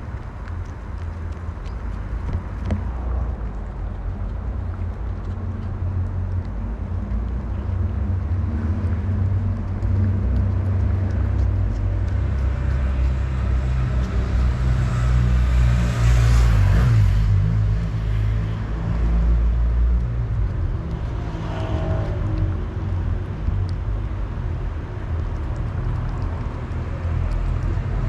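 Steady low rumble of a car, growing louder over the first ten seconds, with a brief louder swell about halfway through.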